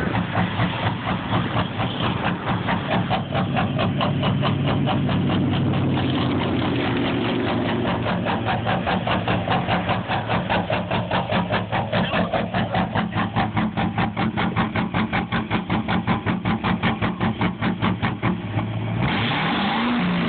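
Duramax diesel engine idling roughly, with an uneven, rhythmic pulsing several times a second. Near the end the pulsing smooths out and the pitch briefly rises and falls.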